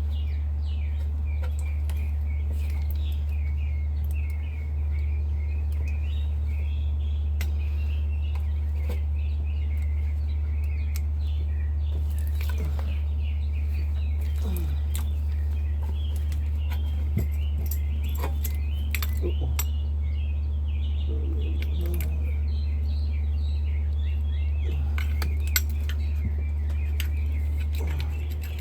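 Small birds chirping almost continuously over a steady low hum, with scattered light metallic clicks and clinks of hand tools at work on the engine.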